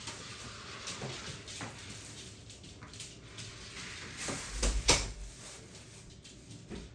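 Several soft knocks and rustling handling sounds, then a heavier knock with a deep thump about five seconds in.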